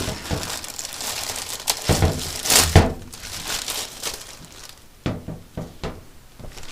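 Rustling and crinkling handling noise, with a few heavy knocks about two to three seconds in and some sharp clicks later.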